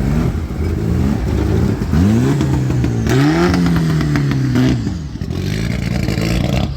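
A car engine being revved: a series of quick throttle blips, then a bigger rev held for a second or so and dropping away, before it settles back around five seconds in.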